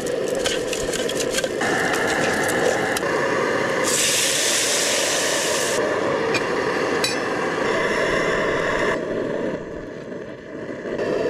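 Cooking: utensils clinking and scraping against cookware over a steady sizzling hiss, with a louder rushing hiss for about two seconds midway. The hiss drops away near the end.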